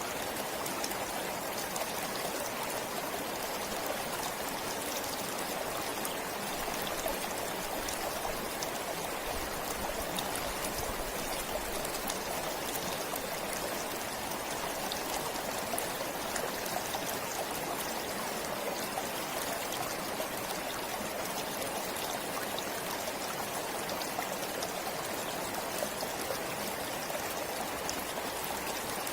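Forest stream flowing steadily, a constant rush of water with fine trickling and splashing.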